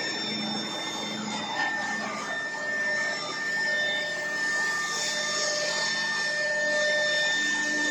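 CNC router running steadily, its spindle giving a high, even whine over machine noise; the whine sets in about a second and a half in and holds.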